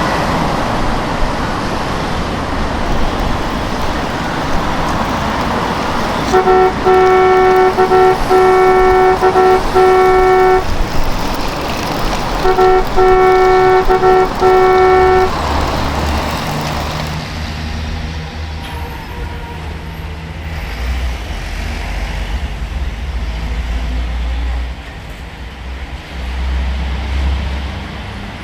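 Vehicle horn honking in two runs of short repeated blasts, over running vehicle noise that settles into a low, steady engine rumble after the honking.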